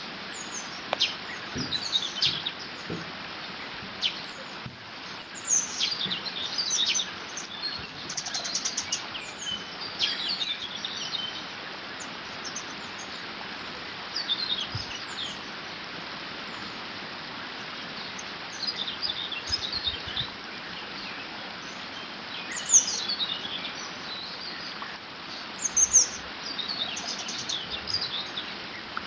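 Several small birds singing and chirping in short, repeated phrases over a steady rush of water flowing through a beaver dam.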